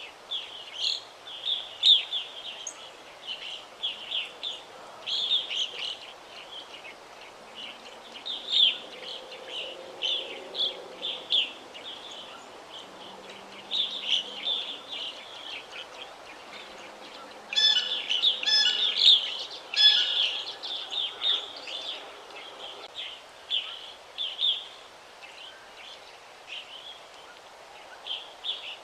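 Songbirds chirping and singing: a steady run of short, high chirps, with a louder, busier flurry of song about two-thirds of the way through, over a soft background hiss.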